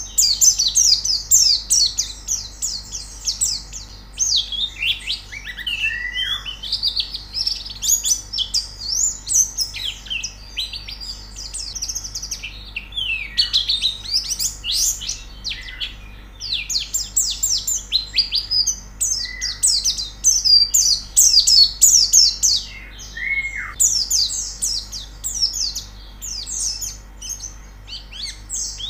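White-eyes (pleci) singing: long runs of fast, high twittering notes with short pauses between phrases, and now and then a short lower down-slurred note.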